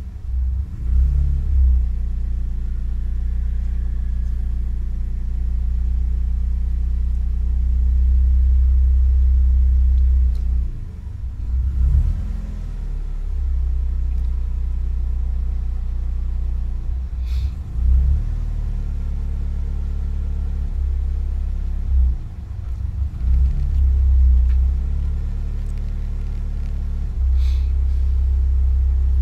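Alfa Romeo 156 1.6 Twin Spark four-cylinder engine idling around 1000 rpm, heard from inside the cabin, with the idle wavering and dipping several times instead of holding steady. This is the hunting idle the owner cannot cure despite replacing nearly every part short of the ECU.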